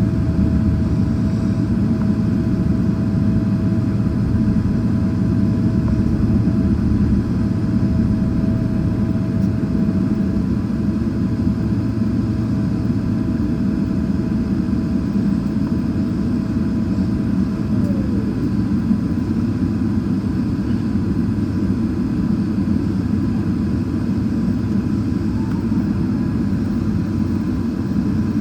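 Boeing 777-300ER airliner noise: a steady low rumble with a thin mid-pitched whine that glides down in pitch about two-thirds of the way through.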